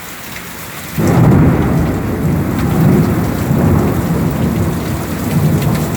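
Steady heavy rain, then about a second in a loud rumble of thunder breaks in suddenly and keeps rolling under the rain.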